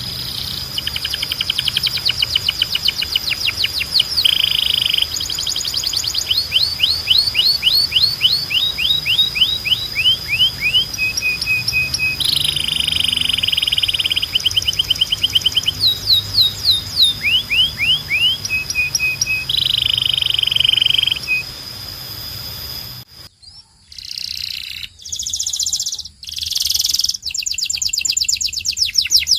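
Canary singing: fast trills of repeated rising notes at changing speeds, broken by buzzy rolls, over a steady high held tone. About 23 seconds in, the song cuts off abruptly and a different run of trills starts.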